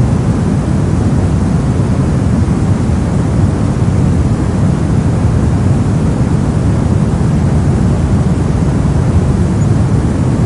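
Brown noise: a steady, unchanging wash of random noise, deep and rumbling, strongest in the bass and fading toward the treble.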